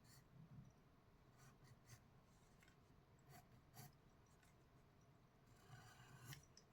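Faint scratching of a drawing tool sketching on paper: short separate strokes, with a longer run of quick strokes near the end.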